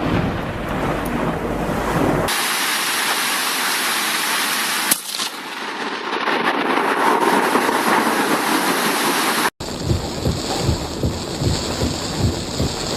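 Thunderstorm ambience: a steady hiss of heavy rain, changing abruptly twice as one recording gives way to another. Gusts of wind buffet the microphone over the last few seconds.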